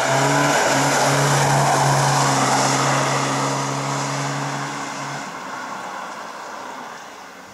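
Historic rally car's engine running hard at steady revs as it passes, then fading away as the car drives off from about five seconds in.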